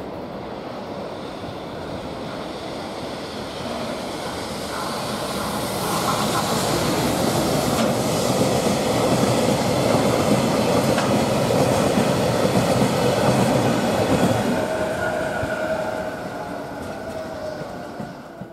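EF210 electric locomotive and its train of Taki oil tank wagons passing close by: a rolling rumble of wheels on rail that builds as the locomotive approaches, is loudest as the tank cars go by, and fades as the end of the train passes, with a thin ringing tone in the last few seconds.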